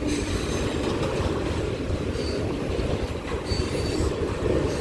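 Train rolling past: a steady rumble of wheels on rail, with brief faint wheel squeals.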